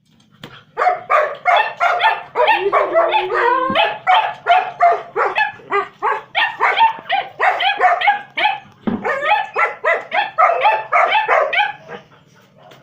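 A dog barking and yelping rapidly in excited greeting at meeting its owner, about three calls a second, with one longer whine a few seconds in. The barking stops about a second before the end.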